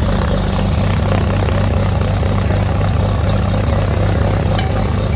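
Light propeller airplane's engine running steadily at low power, with an even low throbbing drone.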